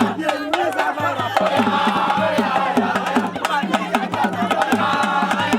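Loud, fast drumming in a quick, busy rhythm of many strokes a second, with voices singing or calling over it.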